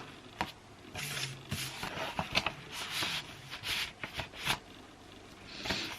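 Irregular light clicks, taps and rustling of small objects being handled, as in home kitchen work.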